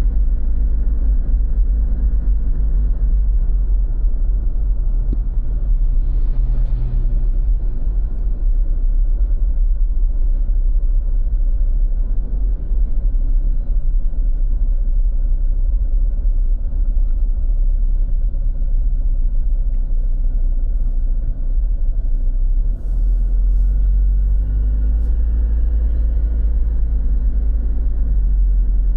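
Steady low rumble of road traffic, with vehicles passing and swelling in level around a quarter of the way in and again near the end, under heavy low-pitched noise on the microphone.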